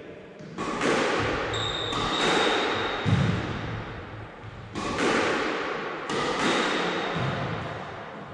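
Squash ball struck by a racket and hitting the court walls, a handful of sharp hits a second or more apart, each ringing out in the court's echo.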